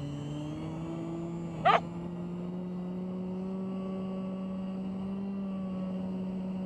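RC airplane's electric motor and propeller running steadily in flight, a steady hum that rises slightly in pitch in the first second. About a second and a half in, one short, loud pitched burst cuts across it.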